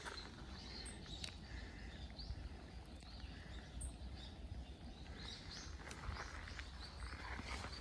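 Quiet outdoor ambience: faint, scattered bird chirps over a low steady rumble of wind on the microphone, with no footsteps.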